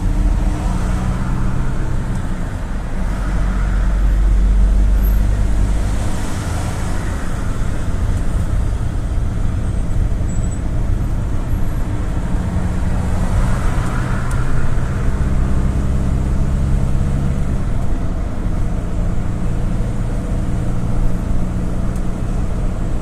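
Engine and road noise of a GAZ-A68R52 GAZelle City minibus under way, heard from inside the cabin: a steady low drone that swells twice.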